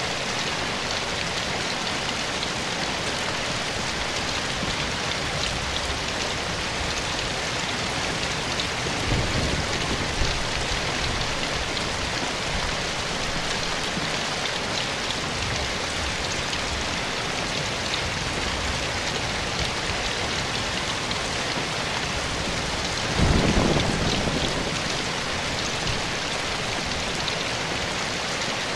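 Steady soft rain, an even hiss of falling drops. Twice, about nine seconds in and again about twenty-three seconds in, a brief low rumble swells under it and fades.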